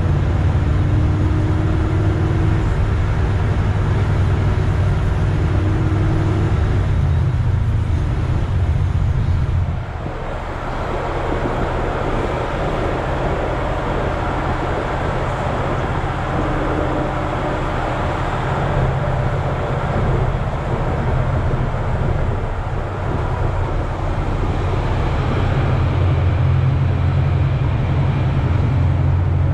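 Chevrolet Nova's engine and exhaust rumbling as the car drives along, mixed with road noise. The low rumble eases off about ten seconds in and comes back stronger near the end.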